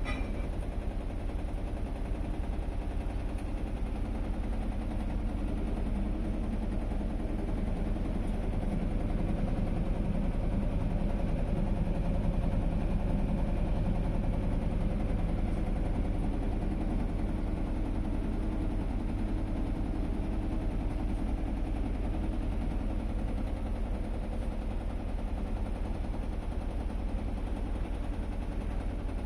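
Panasonic NA-V170LMS inverter top-load washing machine in its spin-dry cycle: a steady low hum and whir with a fine, fast rattle, swelling slightly in the middle. Fairly quiet for a spin cycle.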